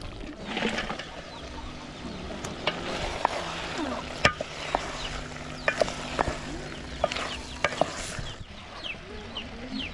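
Food sizzling in a pot over a wood fire while it is stirred, with many sharp knocks of the spoon against the pot. Chickens cluck now and then.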